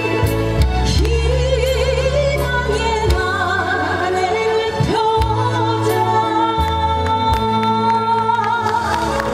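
A female singer singing a song over a backing track with steady bass. In the second half a long note is held with vibrato.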